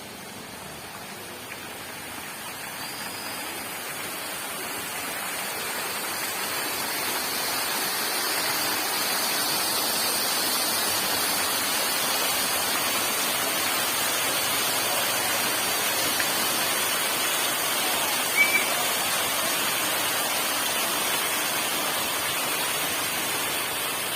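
Water fountain running: a steady rush and splash of falling water that swells over the first several seconds, then holds steady. A brief high chirp sounds once, about three quarters of the way through.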